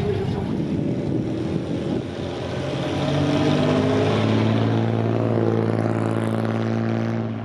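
A vehicle engine runs close by at steady revs, getting louder about two and a half seconds in and holding one even drone. It drops away just before the end.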